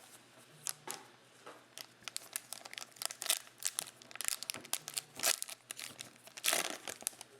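Crinkling and tearing of a trading card pack's wrapper as it is opened by hand: a run of irregular crackles, sparse at first and much denser from about two seconds in.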